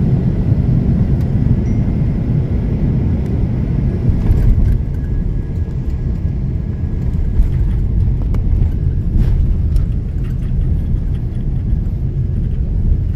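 Airliner landing: a loud, steady, low rumble of the aircraft's engines and airflow, with a few faint clicks.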